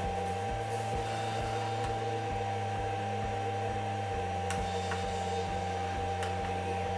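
Steady mechanical hum with a clear high steady tone over it and faint regular ticking, about three ticks a second.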